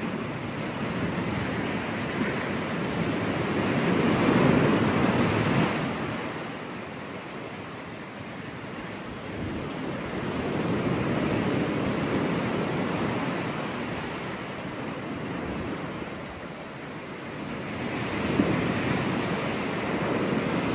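Ocean surf washing onto a beach, a rushing noise that swells and fades as each wave comes in and draws back, about every seven seconds. The loudest wave comes four to five seconds in and cuts off abruptly.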